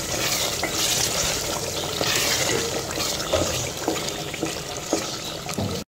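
Diced potatoes in a wet masala gravy sizzling as they fry in oil in a metal pot, stirred with a wooden spoon that knocks lightly against the pot a few times.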